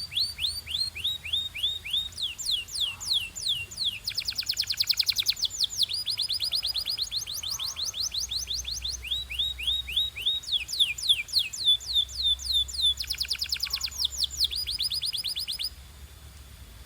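Domestic canary singing: rolls of quick, repeated down-slurred whistled notes, each run at its own speed, some slow and spaced, some fast trills. The song stops about a second before the end.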